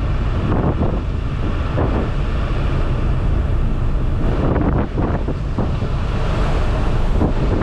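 Strong storm wind gusting against a car, with heavy wind rumble on the microphone.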